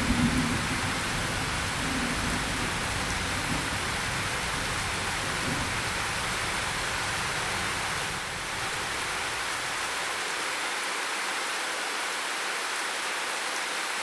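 Steady rain falling, an even hiss, with a low thunder rumble dying away in the first few seconds.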